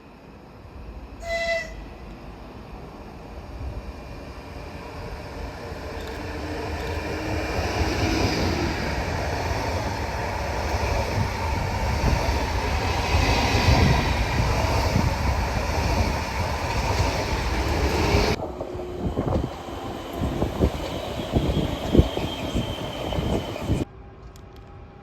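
A passenger train at a station: a short horn blast about a second in, then the rumble and wheel noise of the train running past, building to a peak. The sound changes abruptly near 18 s, with irregular clacks over the rails, and drops sharply just before the end.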